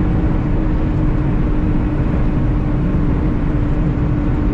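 International LoneStar semi-truck cruising at highway speed: steady engine drone and road noise with a constant low hum.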